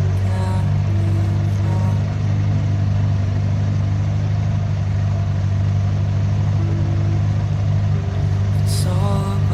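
Boat engine running steadily, a constant low drone that holds unchanged throughout. Music plays faintly over it near the start and again near the end.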